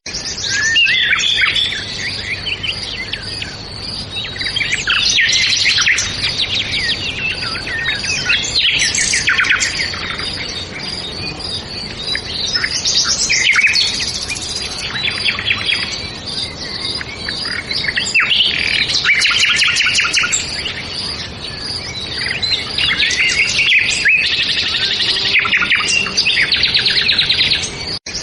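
Several birds chirping and singing together, dense overlapping trills and rapid twitters throughout, over a faint steady background hum.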